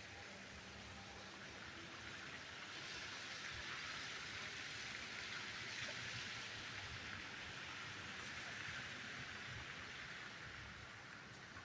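Rain falling steadily during a thunderstorm, a soft even hiss that grows heavier a few seconds in and eases off near the end.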